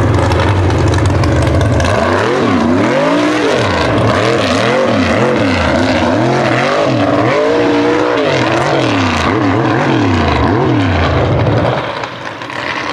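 Mud-bog truck engine at high revs, then from about two seconds in revving up and down rapidly over and over, before dropping off sharply near the end.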